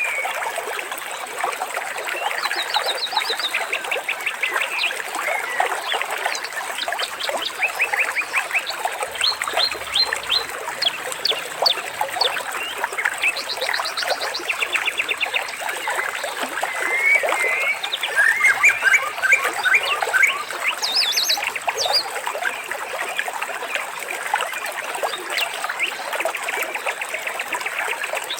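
A dense chorus of many animal calls, mostly short chirps, with a fast, evenly repeated trill breaking through now and then.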